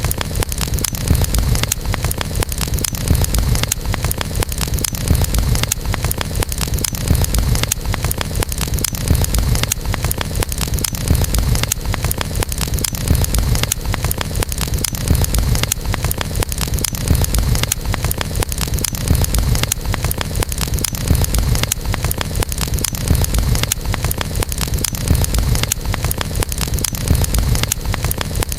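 Campfire burning: dense, continuous crackling over a steady low rumble.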